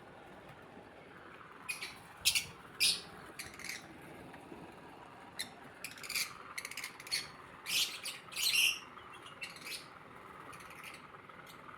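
A flock of lovebirds chirping: short, high-pitched calls in scattered clusters, busiest from about six to nine seconds in.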